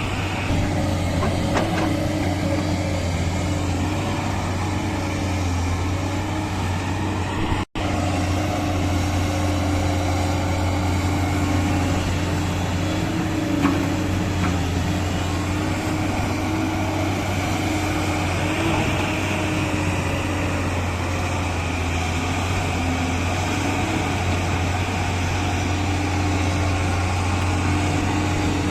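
Diesel engine of heavy earthmoving machinery running steadily with a low, even hum, cutting out for an instant about eight seconds in.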